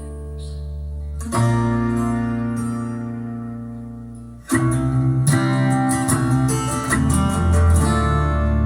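Acoustic guitar music: a chord strummed about a second in and left to ring and fade, then a run of quick strums from about four and a half seconds.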